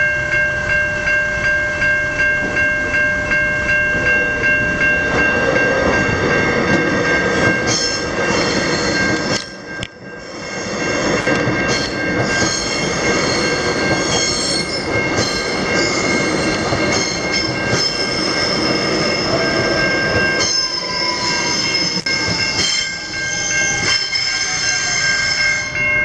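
Electric suburban train passing through a level crossing, its wheels clattering over the rails, while the crossing's electronic bells ring steadily.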